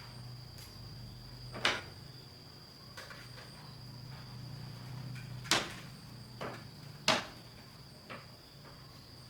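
A steady, high insect drone, with about six sharp knocks at irregular spacing over it; the two loudest fall a little past the middle.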